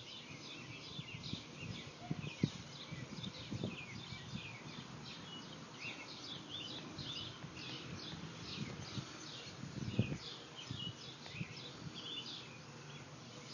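Small birds chirping over and over in quick short calls, with a faint low background rumble and a couple of soft knocks, about two and a half and ten seconds in.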